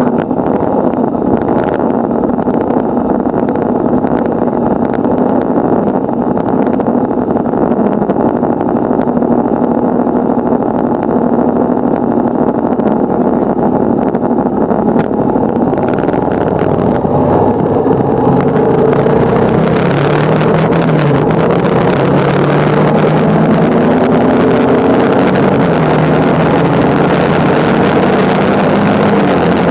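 Motorcycle engine running steadily while riding. A little past the middle the engine pitch drops and then climbs again as the revs change, and wind noise on the microphone grows stronger over the second half.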